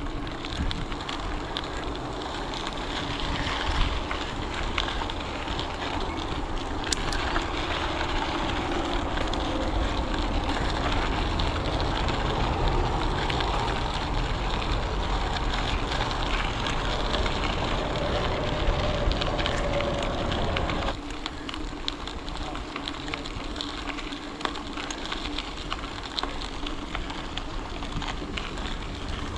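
Wind rushing over the microphone of a camera carried on a moving bicycle, with a steady low rumble and a hiss of tyres on the trail; it eases off somewhat about two-thirds of the way through.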